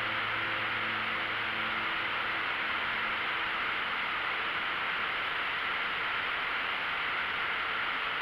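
Steady cockpit noise of a light aircraft in flight: an even hiss of wind and engine, with no distinct beat. The last notes of soft background music fade out in the first two to three seconds.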